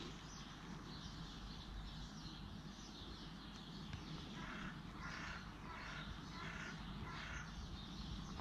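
Faint bird calls in the background: a run of about five calls, a little over half a second apart, starting about four seconds in.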